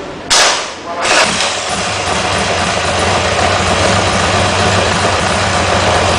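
Buell XB12S's air-cooled V-twin starting through a custom-made muffler: a short loud burst about a third of a second in, a second surge as it catches about a second in, then a steady idle.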